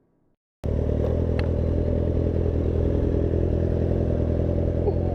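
Motorcycle engine running at a steady speed. It cuts in suddenly after about half a second of silence and holds an even pitch throughout, with a faint click near the 1.4 s mark.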